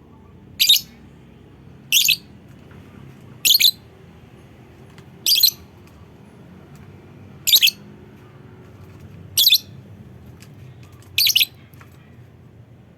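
A lovebird giving seven short, shrill single calls, spaced about one and a half to two seconds apart.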